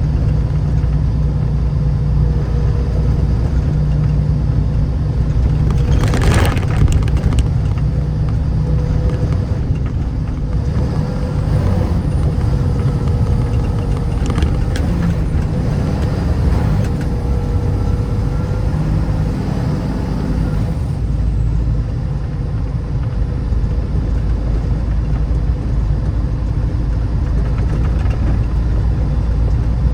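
Vehicle driving: steady low rumble of engine and road noise, with a brief louder rush about six seconds in.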